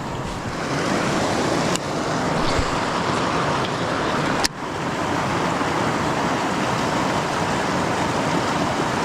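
Creek water rushing steadily, with two brief clicks, the second about four and a half seconds in followed by a short dip in the sound.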